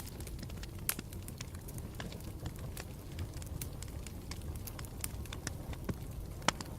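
Campfire burning with a steady low rumble and irregular crackles and pops, the sharpest about a second in and again near the end.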